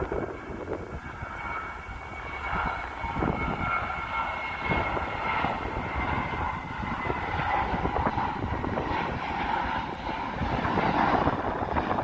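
Jet airliner's engines running as it passes, a high whine fading over the first several seconds over a broad rumble, with wind buffeting the microphone.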